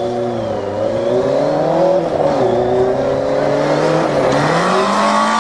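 Motorcycle engine of a home-built dune buggy running under load, its revs falling and rising, then climbing about four seconds in and holding higher.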